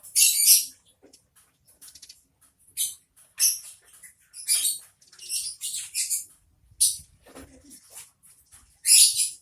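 Sparrows chirping in short, irregular high-pitched bursts, about a dozen in all. The loudest come at the very start and just before the end.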